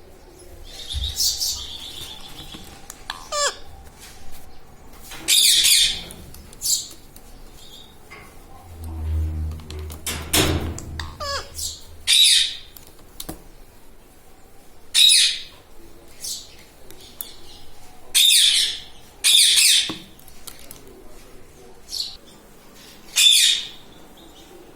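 Pet ringneck parakeet giving about nine loud, shrill screeches at irregular intervals, each under a second, with fainter chirps in between.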